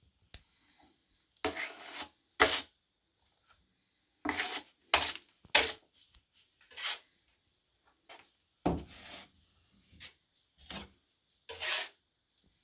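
Trowel scraping drywall joint compound (mud) and loading it onto a hawk: about ten short, separate scrapes at an irregular pace.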